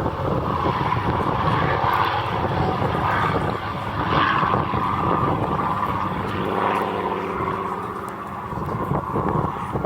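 Propeller-driven warbird's piston engine running steadily as the aircraft flies past, with a drone of evenly spaced engine tones.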